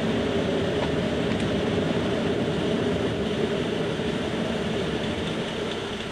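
Steady rushing airflow noise on Concorde's flight deck, dying away over the last couple of seconds as the nose and visor come up and streamline the aircraft.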